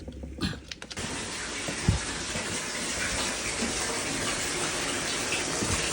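A few clicks as the shower valve handle is moved, then water running steadily through the newly fitted Moen cartridge valve, with a single knock about two seconds in.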